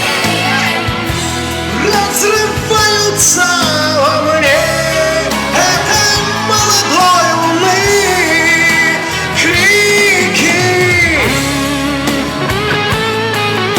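Singing of a Russian rock-pop ballad over a backing track, long held notes with vibrato above steady guitar and bass accompaniment.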